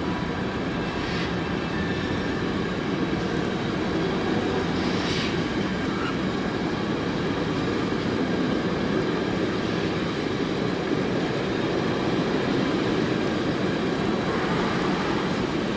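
Railway wagons rolling past, a steady rumble of steel wheels on the rails, with a couple of faint brief high squeaks about a second in and again around five seconds.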